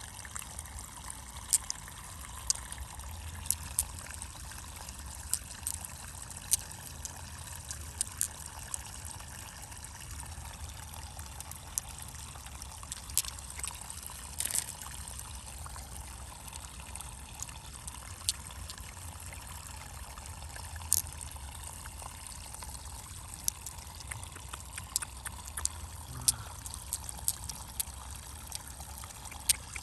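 Water trickling and pouring steadily, with many short, sharp clicks and taps scattered throughout, a few of them louder.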